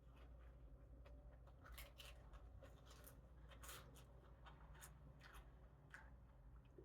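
Faint eating sounds: irregular soft clicks and crunches of someone chewing and picking at fried catfish, over a low steady hum.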